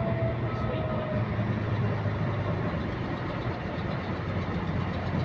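Bus engine running, heard from inside the bus, with a repetitive clicking that keeps time with engine speed. A whine falls slightly in pitch and fades out about a second in.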